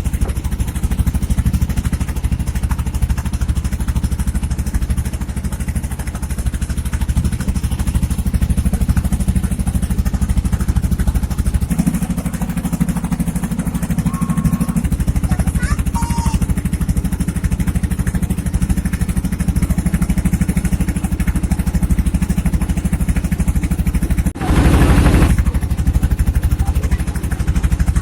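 A small boat's engine running steadily with a low, even drone. Its note shifts for a few seconds near the middle, and a brief louder rush of noise comes about 24 seconds in.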